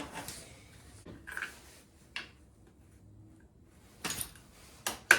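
Metal hand tools being picked up and handled: scattered clicks and clanks, then a run of sharp metallic knocks in the last second or so.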